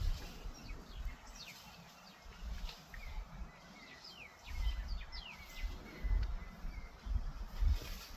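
Birds calling with many short, quick descending chirps, over intermittent low rumbling.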